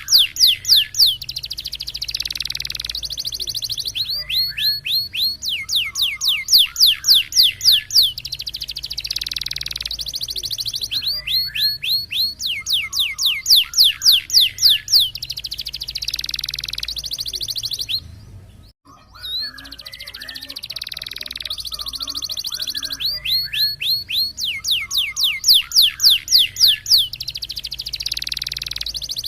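Domestic canary singing a roll-type song. Quick runs of high whistled notes, each sliding downward, alternate with long buzzing rolls, the same phrase coming round about every six seconds. There is a brief break about two-thirds of the way through.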